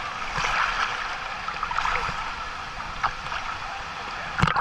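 Waterfall water rushing and splashing into its pool, with a few short splashes and a sharper, louder splash or knock near the end.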